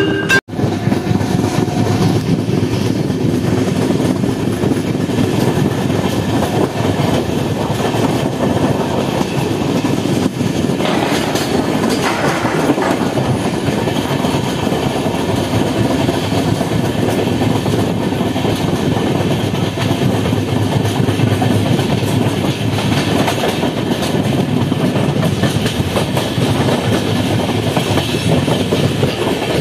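Moving passenger train heard from an open coach window: steady running rumble of the wheels on the track, with clickety-clack over the rail joints.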